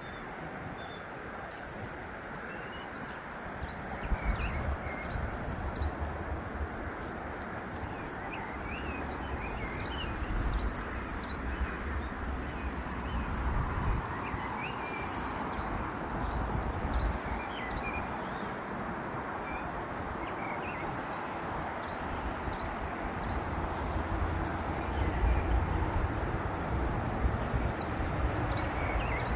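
Small birds chirping in short, repeated notes over a steady background rumble.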